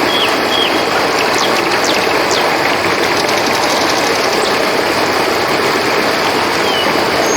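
Steady rush of flowing river water, with short high chirps and a quick ticking trill over it about two to three seconds in.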